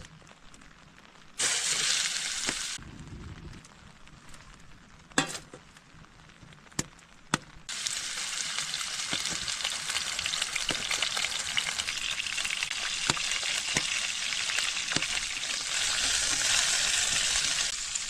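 Food sizzling and frying in a hot pan. The hiss starts abruptly twice, briefly about a second and a half in and then steadily from about eight seconds in, with a few sharp clicks of a utensil or pan in between.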